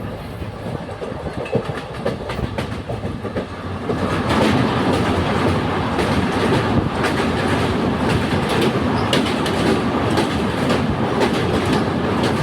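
Moving train's wheels clattering over the rail joints with a steady rumble, growing louder about four seconds in.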